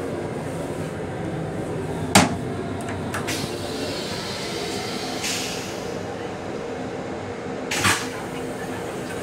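Steady hum and rumble of a Metro-North M7 electric railcar, heard from inside its restroom, with two sharp knocks, one about two seconds in and another near the end.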